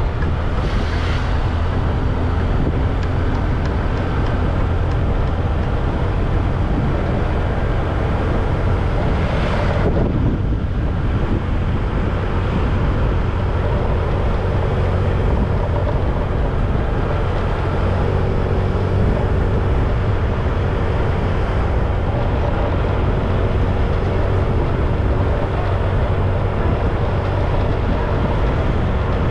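Motorcycle engine running steadily while riding, with wind rushing over the action camera's microphone. Two brief louder whooshes, about a second in and around ten seconds in.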